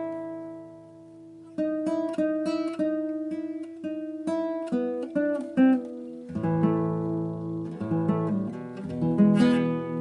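Acoustic guitar playing: a ringing chord, then a run of picked single notes, then fuller strummed chords from about six seconds in.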